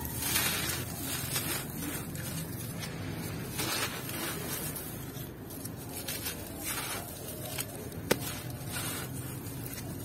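Brittle yellow block chunks crumbling and crushing, a crunchy rustle coming in bursts every second or two, with one sharp click about eight seconds in.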